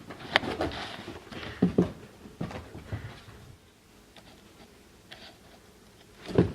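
Bengal kitten playing and scampering: a run of scuffles, pattering and light thumps for about three seconds, then a quieter stretch, then one loud thump near the end.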